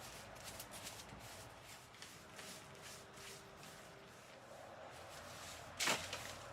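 Repeated scrubbing strokes of a brush or cloth on a surface, several a second, with one much louder quick swish near the end.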